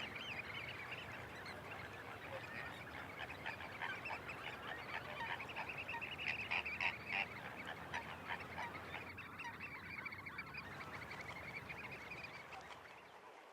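A large flock of wetland waterbirds calling together: a dense, continuous chatter of many short overlapping honks and cries, thinning out near the end.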